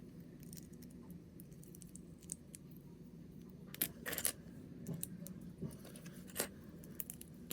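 Small plastic parts of a snap-together Blokees figure kit clicking and rattling as they are handled and pressed together: a handful of scattered sharp clicks over a faint low hum.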